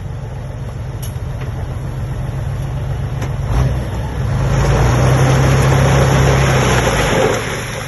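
Diesel engine of heavy earthmoving equipment running. It grows louder about halfway through, with a rush of noise over the engine note, and eases back near the end.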